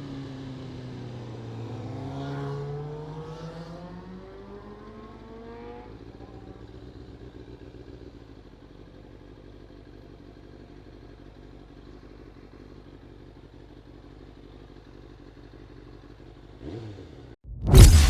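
Kawasaki Ninja ZZR600 inline-four engine heard from the rider's position. Its pitch drops at first, then climbs as the bike revs up about two seconds in, before it settles to quieter steady running. A sudden loud burst of sound cuts in right at the end.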